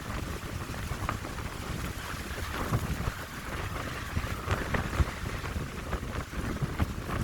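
Wind blowing through a pine grove: a steady rushing hiss of the needles with many small crackles, over a low rumble of gusts buffeting the microphone.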